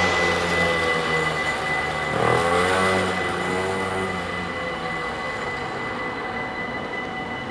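DDAR double-deck train passing over the level crossing, its rumble fading after about four seconds as it moves away. The crossing's warning bells ring steadily throughout.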